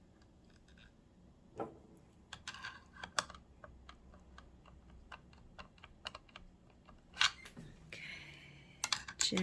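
Scattered light clicks and taps of small metal sewing-machine parts being handled and fitted into the machine's zigzag mechanism, a few sharper ones near the end.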